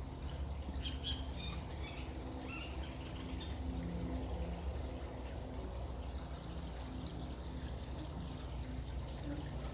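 Water trickling steadily, with a few short bird chirps between about one and three seconds in.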